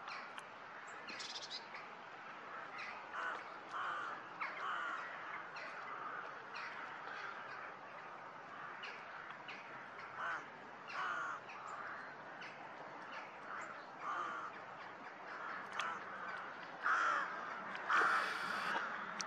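Birds calling: many short repeated calls, roughly a second apart, over a faint steady hiss, getting louder near the end.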